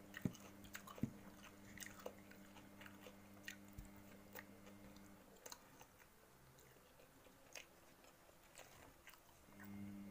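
Faint chewing and biting of food, with small scattered mouth clicks and smacks. A low steady hum underneath stops about halfway through and returns near the end.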